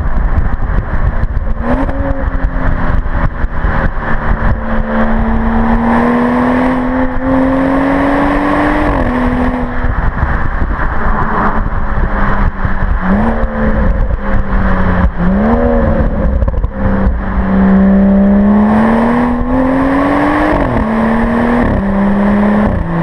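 BMW 435i's turbocharged inline-six exhaust under acceleration: the engine note climbs steadily for several seconds and drops sharply at an upshift, twice, with brief dips and rises of revs in between. Heavy wind rumble on the microphone runs under it.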